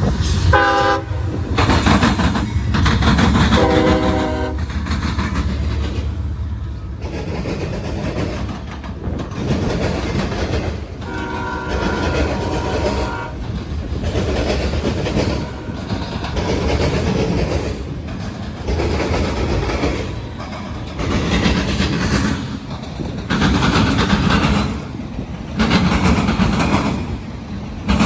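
A CSX freight train crossing railroad diamonds. The locomotive horn blows three times, the last blast the longest, over a low diesel rumble. Then the cars' wheels pound across the diamond crossings in a run of heavy, repeated clatters.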